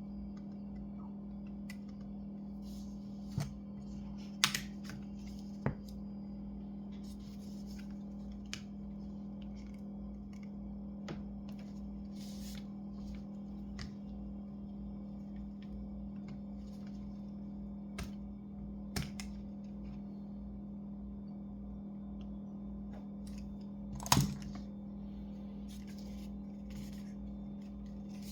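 Scattered small clicks, taps and scrapes of hands and small tools working on a laptop's case and parts, the sharpest click about 24 seconds in, over a steady low hum.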